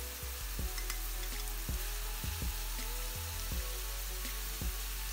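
Diced onion and freshly added grated carrot sizzling in hot sunflower oil in a frying pan, with a spatula scraping and tapping irregularly as the carrot is stirred in.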